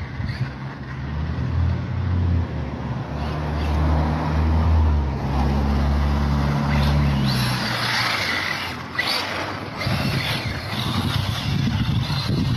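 Motor vehicle sounds on a street: a low, steady engine drone for several seconds, giving way after about seven seconds to a higher hiss and whine with a couple of sharp knocks.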